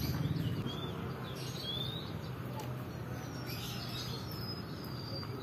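Small birds chirping: short, high, scattered calls, and a longer thin whistle near the end, over a steady low background rumble.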